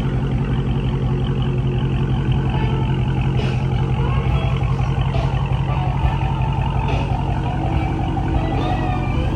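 Dodge Charger Hellcat Redeye's supercharged 6.2-litre HEMI V8 idling steadily through an exhaust with its mid mufflers deleted.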